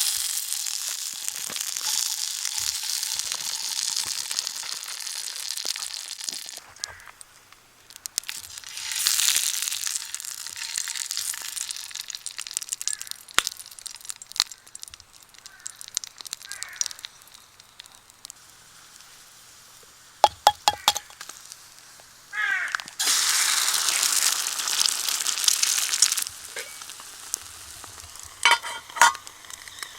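Food sizzling in a hot pan over a campfire, in three loud stretches of a few seconds each with crackling, and a few sharp metal clinks in between.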